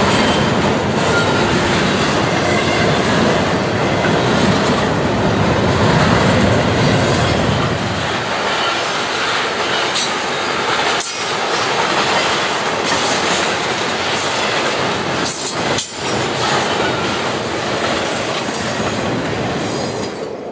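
Double-stack intermodal freight train rolling past at close range: the steady rumble and rattle of steel wheels on the rails under the loaded container well cars, with less low rumble after about eight seconds.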